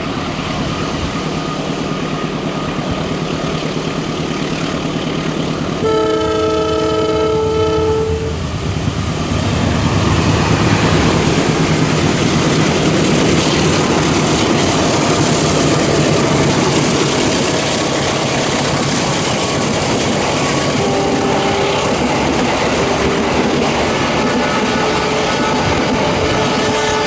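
A train running at speed, with a continuous rush and wheel clatter on the rails. Its horn sounds a multi-tone chord for about two seconds, early on, and the noise swells louder soon after.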